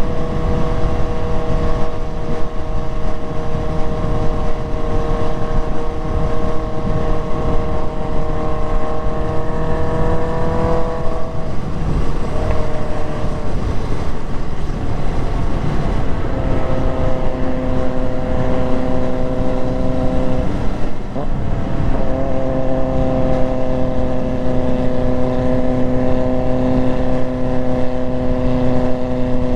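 Motorcycle engine running at a steady cruise under a heavy rush of wind noise. The engine note breaks and changes pitch around 12 seconds in and again around 21 seconds in, then holds steady again.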